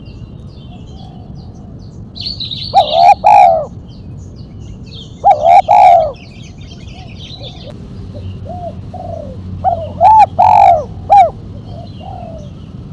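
Spotted dove (tekukur) cooing: three loud phrases of several coos each, the last the longest, with fainter coos between them. Small birds chirp faintly in the background.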